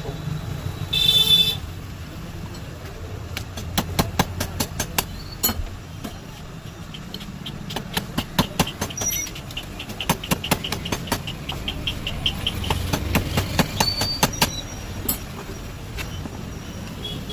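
Runs of sharp clicks and taps from hand work on a table fan's parts, over a steady low rumble; a brief high-pitched tone sounds about a second in.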